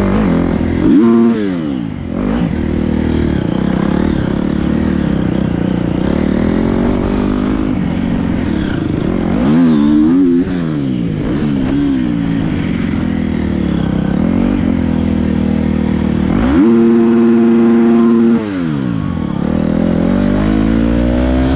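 Dirt bike engine heard from on board, revving up and down over and over as the throttle is opened and closed. Late on, the revs hold at one steady high pitch for about two seconds, then drop away.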